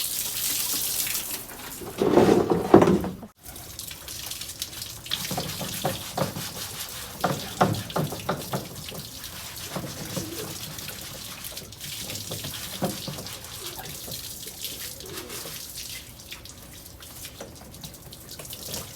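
Water from a hose spraying and splashing onto a yard floor and fittings, a steady hiss with irregular splashes. It is louder for a moment about two seconds in and breaks off abruptly just after.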